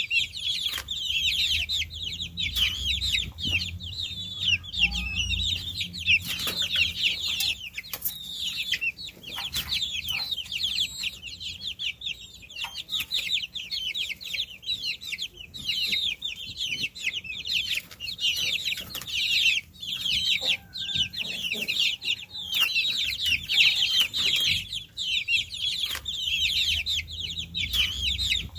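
A group of baby chicks peeping continuously: many overlapping high, short chirps, each falling in pitch.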